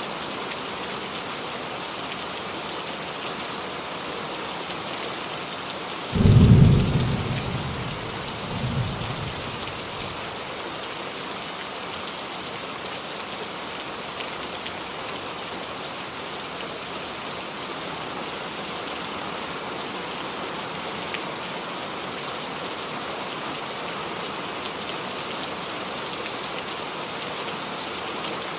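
Steady rain falling on a roof. A sudden thunderclap comes about six seconds in and fades over a second or two, followed by a fainter rumble near nine seconds.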